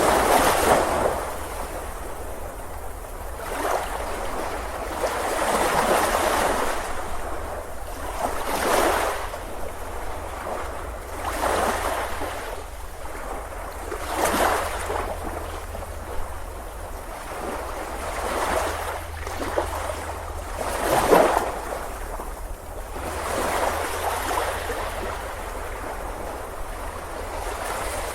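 Ocean waves breaking on a beach, one surge of surf after another every two to three seconds, the loudest about 21 seconds in, over a steady low rumble.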